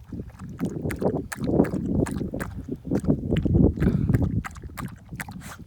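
A dog lapping water in quick, irregular wet strokes, with a low wind rumble on the microphone.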